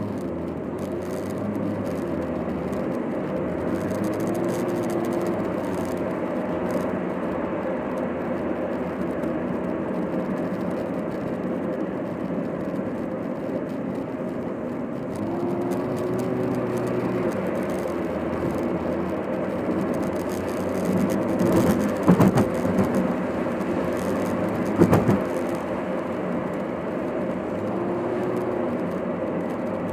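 Car cabin noise while driving: steady road and engine noise, sped up to double speed, with the engine note rising and falling. Two sharp knocks about 22 and 25 seconds in.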